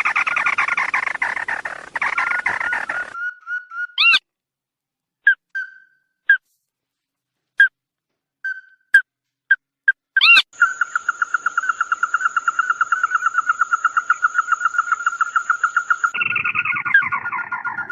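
Recorded call of the bird known in Vietnamese as 'chim mắt đỏ' (red-eyed bird): rapid trills of pulsed notes at one steady pitch. The trills come in chopped stretches with abrupt dead-silent gaps, where only single short notes sound, as in an edited lure recording.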